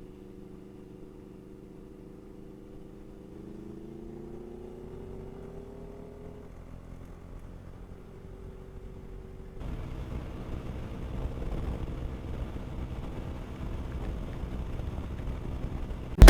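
Motorcycle engine running while riding, its pitch rising as it accelerates a few seconds in. About ten seconds in the sound turns abruptly louder and noisier.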